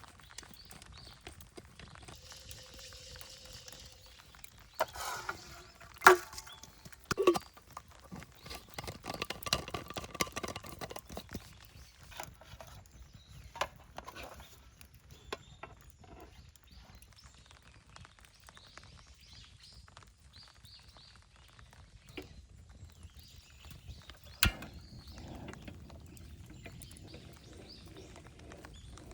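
Camp cookware and utensils being handled: scattered clinks and knocks, loudest about six and seven seconds in, a stretch of busy rattling and rustling a little later, and one sharp knock near the end.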